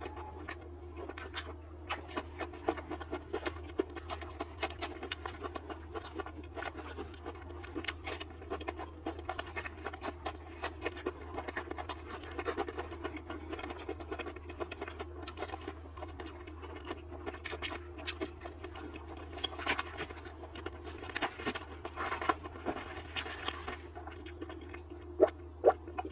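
Close-miked chewing and mouth sounds of someone eating deep-fried skewer food: a rapid, irregular string of small wet clicks and smacks, with a few louder clicks near the end. A steady low hum runs underneath.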